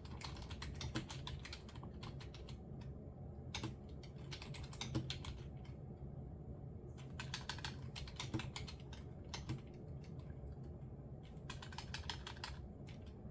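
Computer keyboard typing in short runs of rapid keystrokes with pauses between them, and a few single sharper clicks, over a low steady hum.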